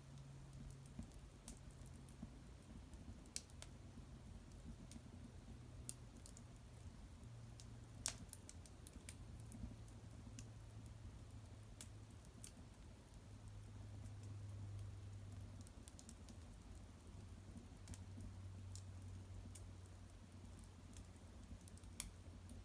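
Wood fire burning in an irori hearth: scattered faint crackles and pops, the sharpest about eight seconds in, over a low steady hum.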